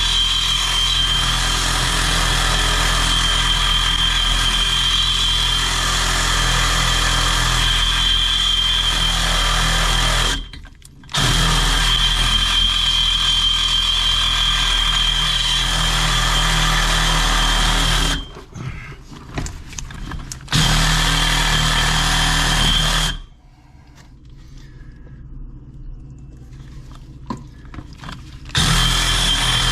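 A power tool running with a steady high whine in long runs, stopping and restarting several times: about ten seconds, then seven, then a short run of a couple of seconds, and again near the end. Fainter clattering fills the pauses.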